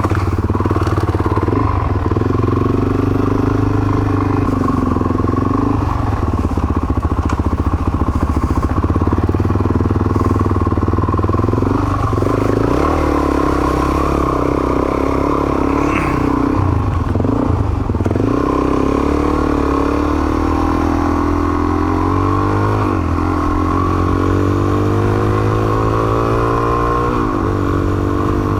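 Suzuki DR single-cylinder dual-sport motorcycle engine running under way, its revs dropping and climbing again several times as it shifts through the gears.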